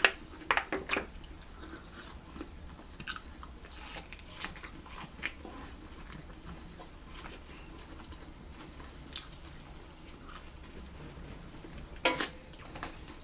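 Close-miked eating: quiet chewing and biting of kabob food and corn on the cob, with scattered small mouth clicks and smacks and a louder burst of them near the end.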